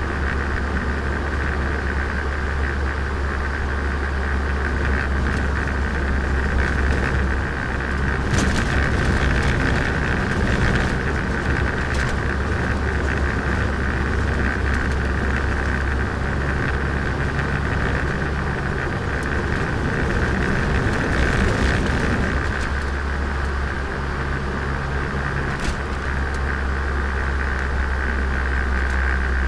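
Turbocharged Nissan Micra driving, steady engine rumble and road noise, rougher and louder for a stretch in the middle, with a few brief knocks.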